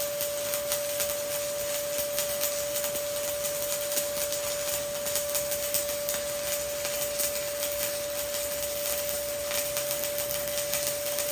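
Stick-welding arc burning an E7018 rod, a continuous crackling sizzle with small irregular pops, over a steady high-pitched tone.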